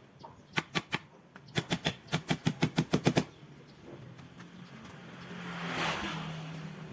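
A quick series of sharp knocks or taps in two runs: three spaced ones, then about ten at roughly six a second. A noisy swell rises and fades near the end.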